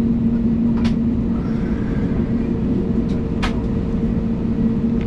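Airbus A320neo cabin noise while taxiing: the engines' steady hum with a constant low rumble and two steady tones, broken by two short clicks, one about a second in and one about three and a half seconds in.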